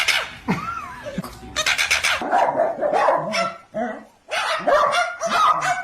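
A series of short dog-like barks, one after another.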